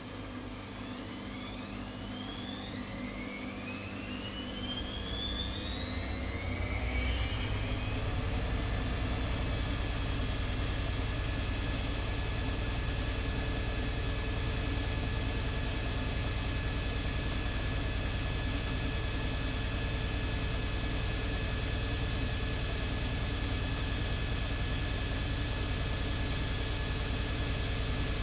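ATLANT 70C1010 washing machine's drum spinning up into a spin cycle: the motor whine rises in pitch and gets louder over the first eight seconds or so, then holds steady at full spin speed with a low hum underneath.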